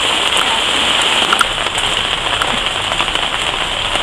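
Steady rain falling: a dense, loud hiss dotted with many short, sharp drop taps.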